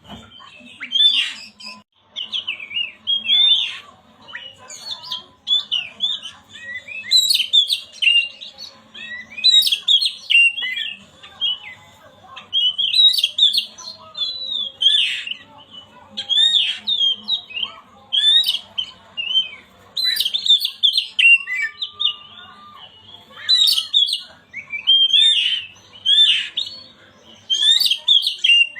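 Oriental magpie-robin (kacer) singing: repeated bursts of fast, quickly changing whistled and chattering notes, a second or two apart with short pauses. This is lure song of the kind used to provoke a silent kacer into singing.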